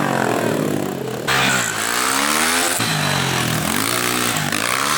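Pit bike engines revving, the pitch rising and falling again and again as throttles are blipped and released. About a second in the sound turns suddenly louder and brighter, as a bike comes close.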